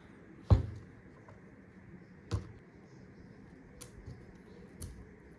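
A few sharp clicks and taps of small repair tools and phone parts being handled, the loudest about half a second in, another a little after two seconds, and fainter ticks near the end.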